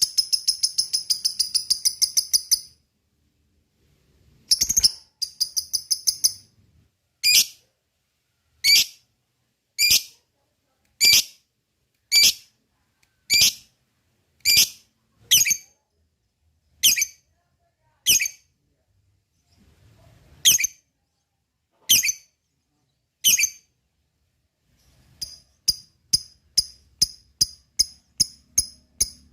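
Lovebird calling: rapid, high-pitched chattering trills (the long 'ngekek') at the start and again near the end, with a run of single sharp chirps about once a second in between.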